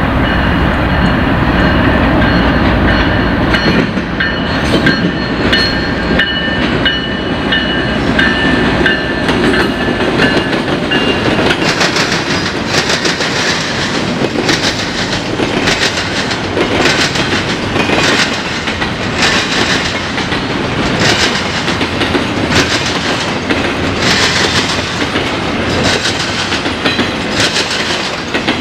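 Canadian National freight train passing through a railroad diamond. Its diesel locomotives rumble at first, under steady high ringing tones for about the first ten seconds. Then the freight cars' wheels bang over the diamond in a steady rhythm of clacks about once a second.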